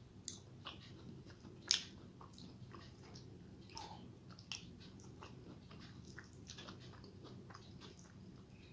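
A person chewing a mouthful of rice and curry eaten by hand: soft, irregular wet mouth clicks and smacks, with fingers working food on the plate. One sharper click comes a couple of seconds in.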